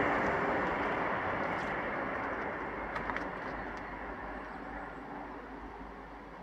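Passenger train rumbling away into the distance after passing, its sound fading steadily, with a few faint clicks about three seconds in.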